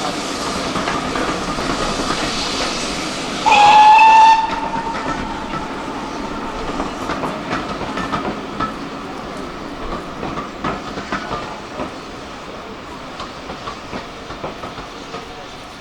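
Train passing with a steady rush of noise, a short whistle blast about three and a half seconds in, then wheels clicking over rail joints as it fades away.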